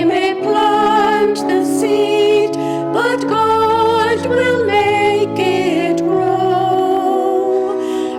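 A harvest hymn sung with instrumental accompaniment: voices with vibrato over held chords changing every second or so.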